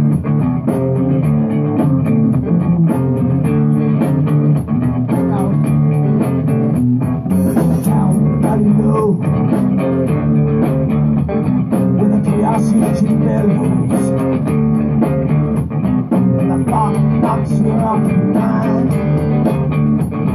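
Rock band playing an instrumental passage: guitar over bass guitar, steady and loud throughout.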